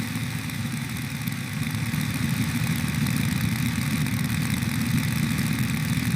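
A machine's engine-like running sound, steady and even without revving.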